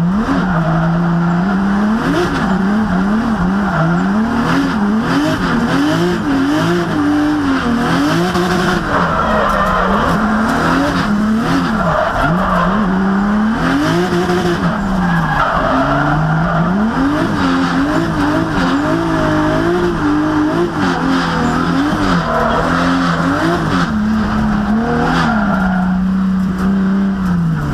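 A 640-wheel-horsepower drift car's engine revving up and falling back again and again, over the steady squeal of tyres sliding through a drift.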